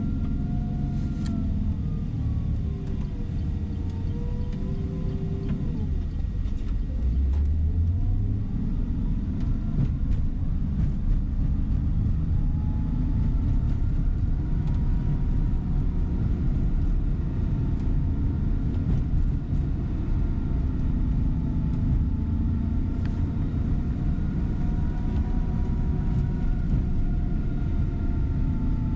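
Bus engine and road rumble heard from inside the coach's cabin while it drives. The engine note dips and rises over the first six seconds or so, then runs steadily at cruise.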